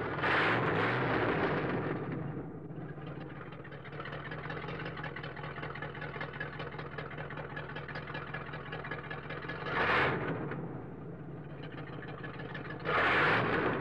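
Car engine idling steadily, rising in a short rev near the start, again around ten seconds in and once more near the end.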